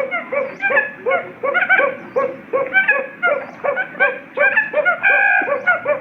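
Quail calling in a fast, even series of short pitched notes, about two to three a second, with one longer held call about five seconds in: a quail decoy call used to lure birds into a trap.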